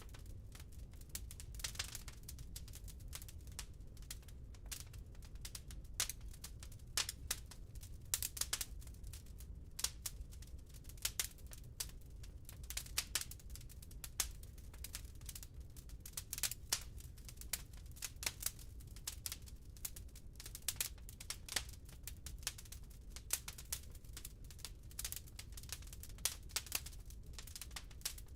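Burning firewood crackling in a fireplace: irregular sharp pops and snaps, several a second, over a low steady rumble.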